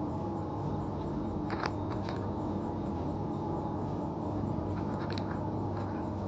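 Steady low room hum with a few short, faint clicks and scratches in two clusters, about a second and a half in and again about five seconds in.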